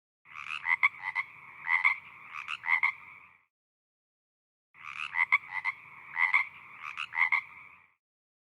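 Frog croaking in two bouts of about three seconds each, each a run of pulsed, rattling croaks, with a short pause between the bouts.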